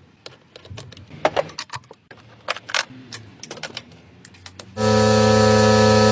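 Irregular light clicks and small clatters of hard objects being handled. Background music comes in loudly near the end.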